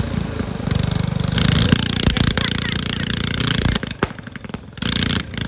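Cub Cadet lawn tractor engine running hard with its governor wired open; it cuts off abruptly about four seconds in, followed by a quieter stretch with a short burst of noise.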